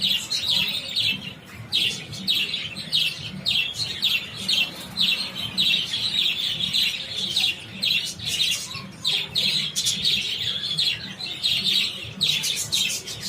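A large flock of budgerigars chattering, with many quick chirps overlapping continuously.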